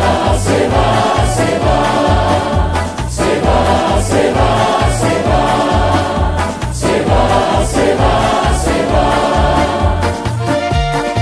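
Choir singing a Colombian song over band accompaniment with a regular bass line; near the end the voices give way to held instrumental tones.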